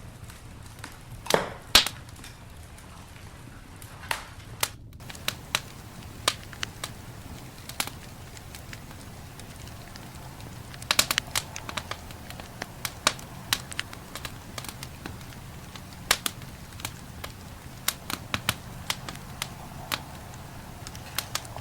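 Campfire burning: wood crackling with irregular sharp pops over a steady low rumble. Two louder pops come about one and a half seconds in, and a quick cluster of pops comes about eleven seconds in.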